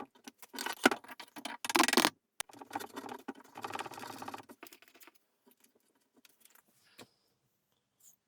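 Small objects being handled on a workbench: irregular clicks, clinks and short scrapes, thinning out after about five seconds to a few faint ticks.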